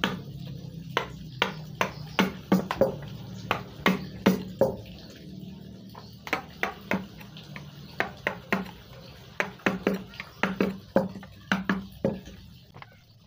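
Wooden mallet tapping a carving chisel into wood: short, sharp knocks at an uneven pace of about two to three a second, with a short pause partway through. A steady low hum runs underneath.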